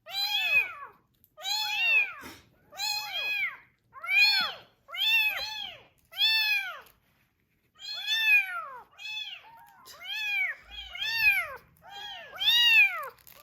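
A young kitten meowing over and over: about twenty short, high-pitched mews, each rising and then falling in pitch, coming in quick runs with one short pause midway.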